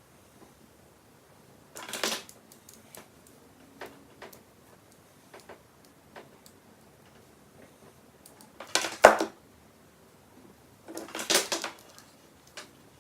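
Intermittent clatter and clicks of small hard objects being handled and set down, with three louder clunks: about two seconds in, around nine seconds, and a cluster around eleven seconds.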